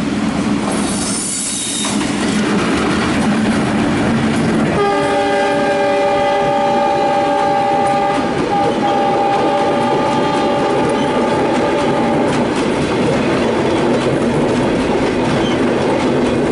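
Bangladesh Railway diesel-hauled passenger train, the Benapole Express, passing close at speed. The locomotive's horn sounds about five seconds in and holds for several seconds, with a brief break partway. The coaches' wheels clatter steadily over the rail joints.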